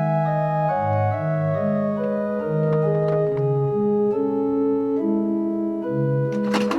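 Background music: sustained organ-like keyboard chords over a bass line that steps from note to note, with a short burst of sharp clicks near the end.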